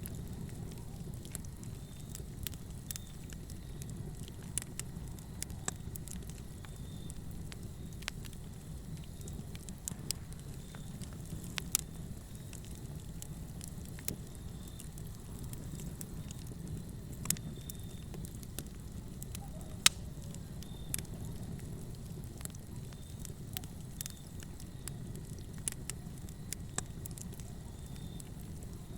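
Wood fire burning in a fireplace: a steady low rumble with irregular sharp crackles and pops, a few of them louder than the rest.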